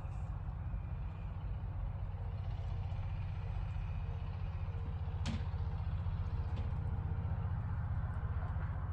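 Farm machine's engine running steadily at an even, low rumble, with a single sharp click about five seconds in.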